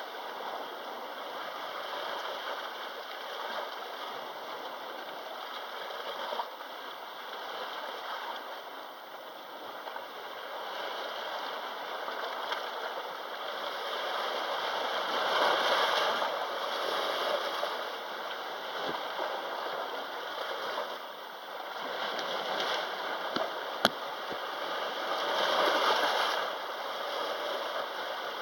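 Sea waves washing in a steady rush. The sound swells louder twice, about halfway through and again near the end. A single sharp click comes late on.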